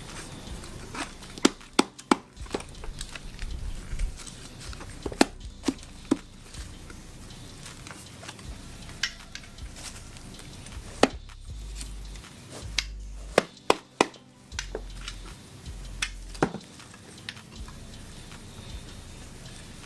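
Irregular clicks, taps and clinks of metal exhaust parts being handled while packing material is worked into a motorcycle muffler can, with a few dull bumps in the second half.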